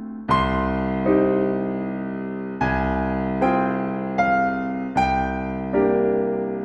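Slow, gentle solo piano music: a series of soft chords, each struck and left to ring and fade, a new one every second or so.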